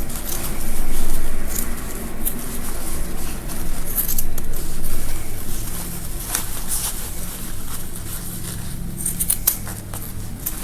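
Scissors cutting through a gown's gathered trim and pleated fabric: irregular snips as the blades close on the cloth.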